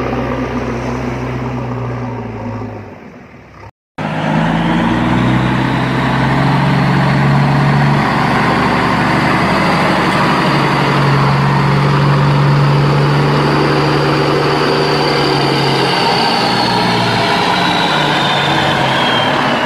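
Truck engine running steadily. The sound cuts out abruptly a few seconds in and starts again about a quarter second later, then runs on with a faint high whine that falls in pitch near the end.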